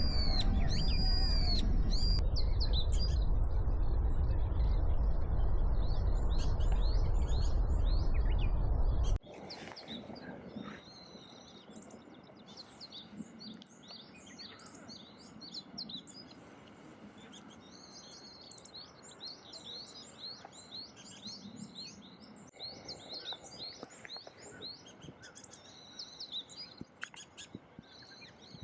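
Wild songbirds chirping and calling in short, quick notes throughout. For about the first nine seconds a loud low rumble runs underneath, then it cuts off suddenly, leaving the chirps over a quiet background.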